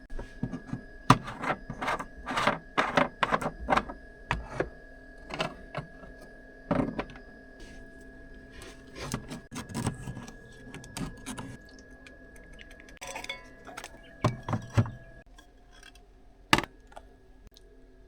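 Small objects being handled and set down at close range: an irregular run of clicks, clinks and light knocks, like kitchenware and containers during meal prep, thinning out near the end. A faint steady hum runs underneath.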